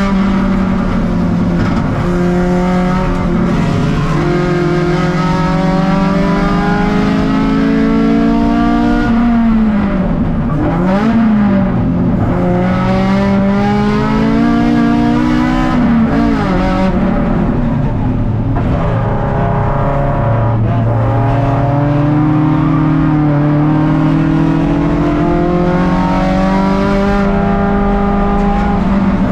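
Race car engine heard from inside the stripped, caged cabin, its pitch climbing as it pulls through the gears. About ten seconds in the revs drop and swing up and down as the car brakes and downshifts for a slower corner, then the engine pulls up through the gears again.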